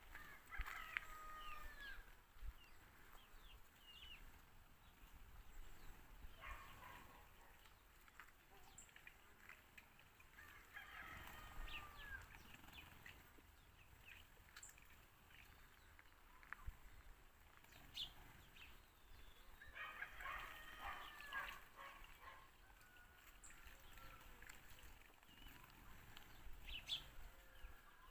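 Sparrows chirping in several short, faint bursts of overlapping chirps, with pauses of a few seconds between them.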